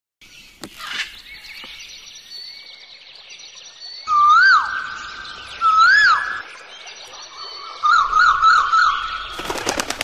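Several songbirds singing: two loud whistled notes that rise and fall, a fast warbled phrase, and fainter high chirping from other birds throughout. A rapid series of sharp clicks comes near the end.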